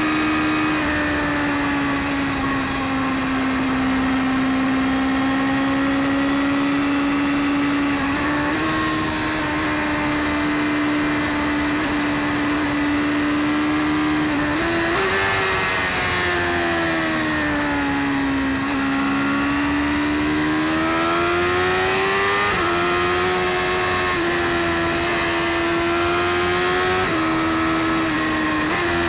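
BMW S1000RR's inline-four engine running at steady highway revs, heard from the rider's position. Its pitch steps abruptly a few times, falls away about halfway through as the throttle eases off, then climbs back up as it pulls again.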